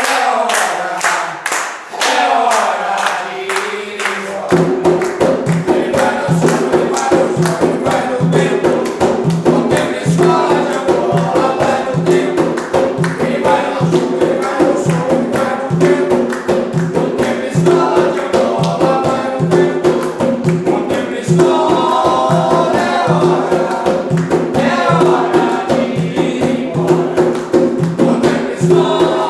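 Umbanda ponto (a devotional song) sung by a group of voices. A steady percussion beat comes in about four seconds in.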